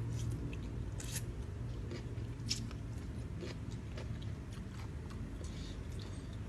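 Close-up eating sounds: wet chewing with scattered mouth clicks and smacks, from someone eating a spicy rice-noodle salad with crispy squid. A steady low hum runs underneath.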